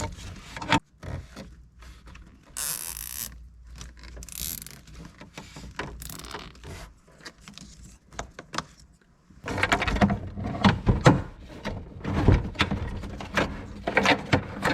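Wiring harnesses and plastic connectors being handled inside a truck cabin: irregular plastic clicks, knocks and rustling, with two short scraping zips in the first few seconds. A denser run of clicks and knocks follows about two-thirds of the way in.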